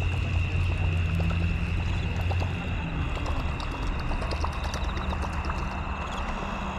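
A steady high-pitched chorus of calling animals at dusk by the river. A low hum runs under it for the first two and a half seconds or so, with scattered faint clicks.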